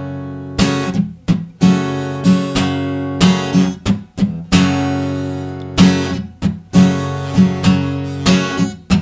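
Acoustic guitar strummed in a repeating rhythmic pattern: down and up strokes across all strings and the bass strings, with short muted, choked strokes where the fretting fingers lift off the strings.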